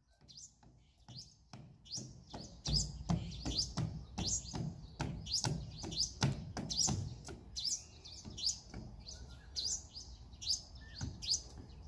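Birds chirping in short, quick, downward-sweeping notes, about two a second, with soft thumps underneath.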